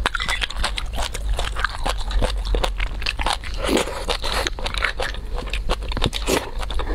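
Close-miked eating sounds of beef bone marrow: wet chewing and mouth smacking in a dense run of quick clicks while the marrow is spooned out of the bone.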